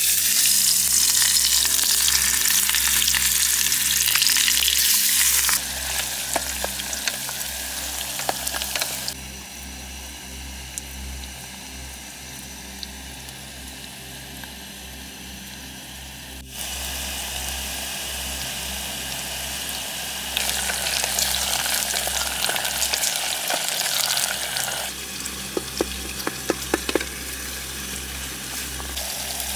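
Vegetables sizzling and frying in hot oil in a small camping pot on a canister gas stove, stirred with a wooden spatula. The sizzle is loudest in the first five seconds and again about two-thirds through, with a few sharp taps of the spatula near the end.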